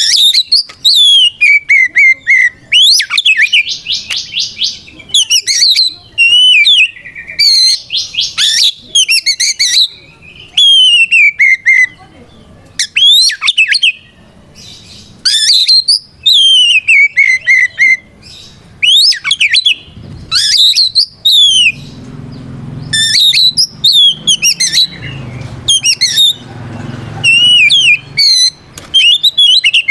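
Oriental magpie-robin (kacer) singing a loud, varied song of sweeping whistled notes and fast buzzy trills, delivered in bursts with brief pauses. It is the full-voiced fighting song that calls out a rival male.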